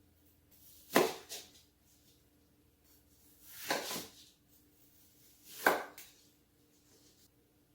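Kitchen knife cutting through vegetables and striking a cutting board, three slow separate cuts.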